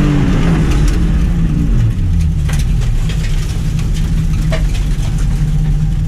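Car engine coming off the throttle at the end of an autocross run: its note falls as the car slows, drops again about two seconds in, then runs steady at low revs, with a few light clicks.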